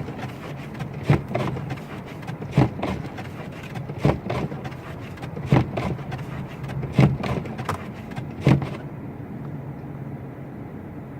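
Car engine running steadily under a regular swish-and-knock about every second and a half, typical of windshield wipers sweeping snow. The strokes stop about nine seconds in, leaving only the engine hum.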